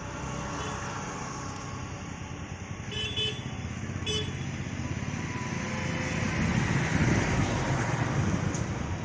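Road traffic noise that swells as a vehicle passes near the end, with two short horn toots about a second apart near the middle.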